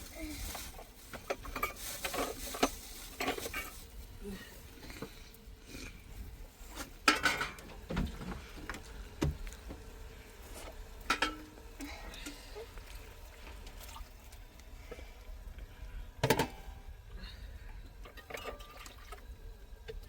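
Scattered clinks and knocks of pots, dishes and utensils being handled during cooking, with some sloshing of liquid. The loudest knocks come about seven seconds and sixteen seconds in.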